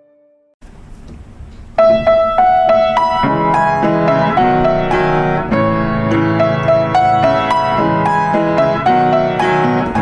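Piano music: after a brief quiet gap with a faint hiss, a gentle piano melody starts about two seconds in over sustained low chords.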